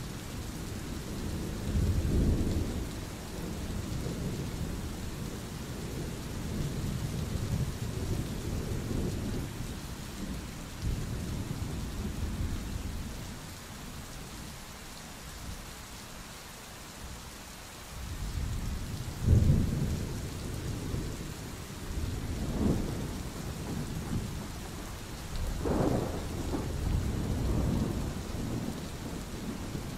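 Steady heavy rain hissing, with rolls of thunder rumbling low several times. There is a quieter lull about halfway, and the loudest roll comes about two-thirds of the way through.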